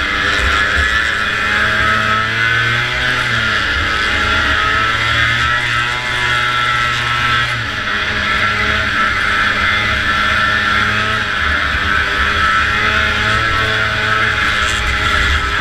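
Antique two-stroke snowmobile engine running hard at race speed, its note easing briefly about three seconds in and again near eight seconds before picking back up.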